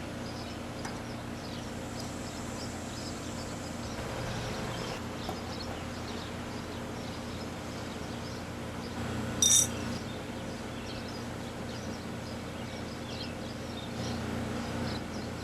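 Steady hum of a running heat-pump system, with faint high chirping throughout. About nine and a half seconds in there is one short, high ringing clink, the loudest sound.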